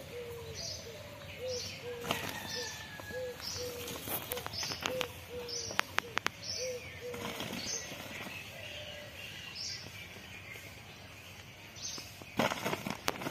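Birds calling: a series of short low hoots, about two a second, for the first seven seconds or so, over higher short chirps that repeat throughout. A few sharp clicks come in the middle and near the end.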